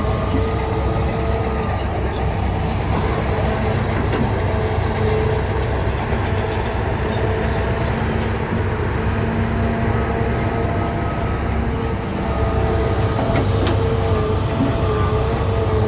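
Zoomlion bulldozer running steadily, its diesel engine rumbling with the steel tracks adding a wavering squeal and light clanking.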